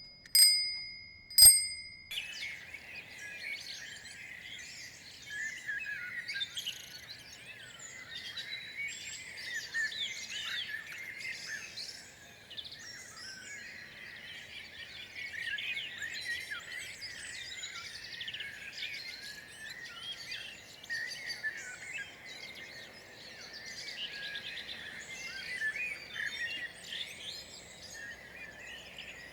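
A bell rings twice in the first two seconds, then a dense chorus of many birds chirping and calling continues throughout.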